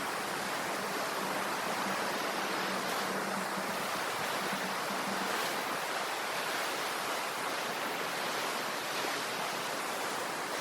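Sea surf washing continuously onto the shore, a steady rushing wash with no separate breakers standing out. A faint low hum runs under it and stops about five seconds in.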